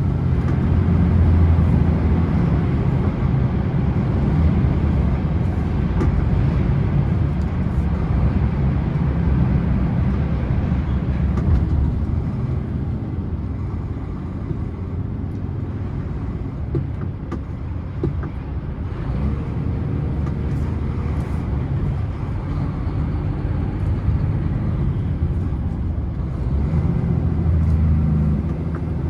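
Scania truck's diesel engine running steadily with road noise, a continuous low drone that eases a little around the middle and builds again near the end.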